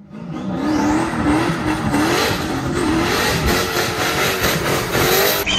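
Turbocharged car engine, plausibly the 1998 Camaro SS's V8, being revved and driven hard. Its pitch climbs and drops several times, and a high whine rises in the first second.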